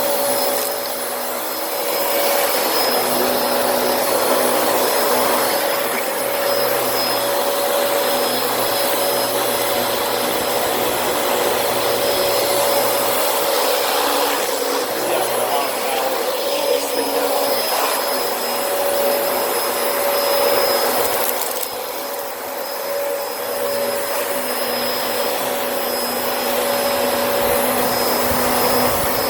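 A vacuum cleaner running continuously with a steady motor whine over a rush of air. Its loudness dips briefly about a second in and again around 22 seconds.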